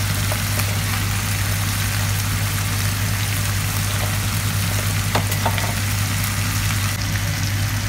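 Tuna, onion and ginger frying in a nonstick wok as cauliflower and green beans are dropped in, over a steady low hum. A light click about five seconds in.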